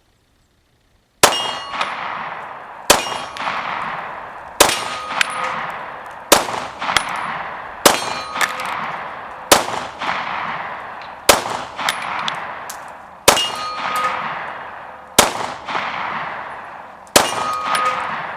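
About ten 9mm pistol shots from an FMK9C1 firing Remington UMC 115 grain full metal jacket rounds, one every second and a half to two seconds, starting about a second in. Each shot is followed by a long metallic ringing that dies away before the next.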